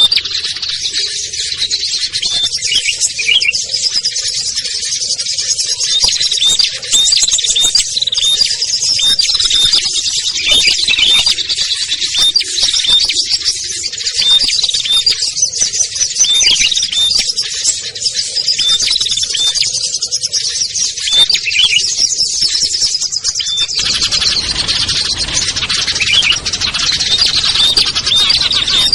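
Dense chorus of many small songbirds chirping and calling at once, rapid high notes overlapping without pause: a lure recording used to attract small wild birds. About five seconds before the end, a wider background hiss comes in under the chirping.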